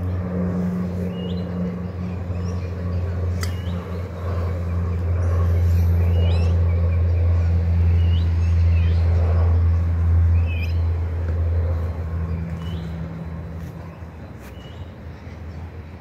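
Outdoor field recording of a small bird repeating short, upward-hooked chirps about every second or two, over a steady low hum that is the loudest sound and swells in the middle before easing off near the end.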